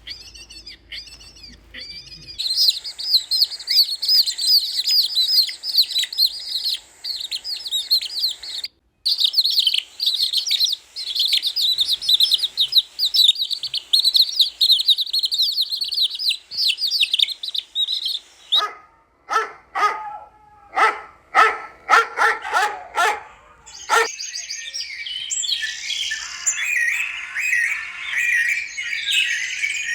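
Small birds chirping and twittering densely and continuously, broken a little past the middle by about five seconds of short, sharp, separate yaps, after which the dense chirping returns.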